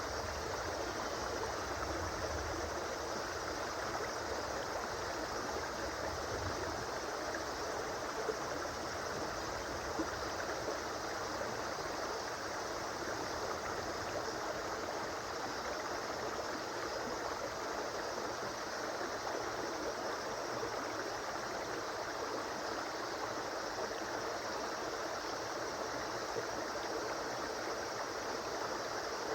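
A river flowing steadily, a continuous rush of running water with faint gurgling.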